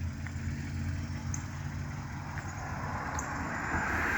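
Steady low rumble of a car driving slowly, heard from inside the cabin, with a hiss of road noise that builds near the end.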